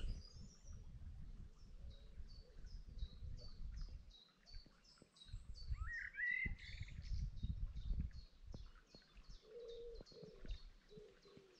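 Songbirds in a hedgerow: one small bird repeats a short, high note about three times a second throughout. A louder warbled phrase from another bird comes about six seconds in, and a few low notes near the end, over a low rumble.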